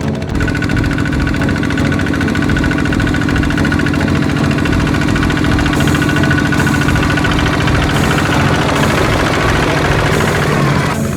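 ZT 155 tractor's engine running at a steady speed, its even note blurring about nine seconds in, with an abrupt change near the end.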